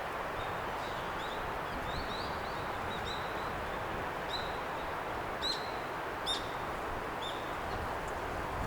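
Small birds chirping in short high notes, the two loudest a little past the middle, over a steady rushing noise in the forest.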